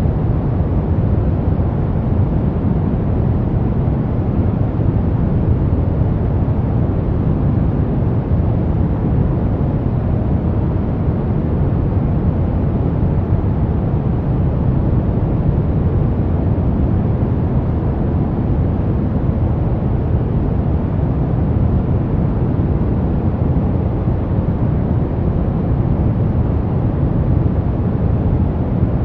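Brown noise: a steady, deep rushing hiss, heaviest in the bass and thinning out toward the treble, with no changes at all.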